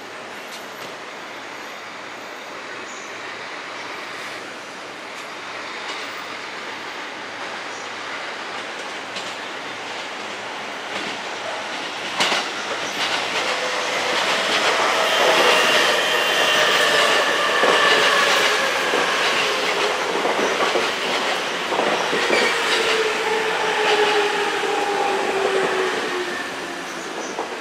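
An E257 series electric limited express train comes into the station, its noise building slowly and then growing loud with clatter over the rail joints. Its motor tones glide steadily downward in pitch as it slows, and the sound eases near the end.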